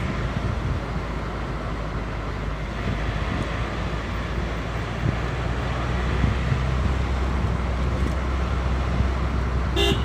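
Steady road noise inside a moving car's cabin: engine and tyres running with a low rumble, with some wind noise.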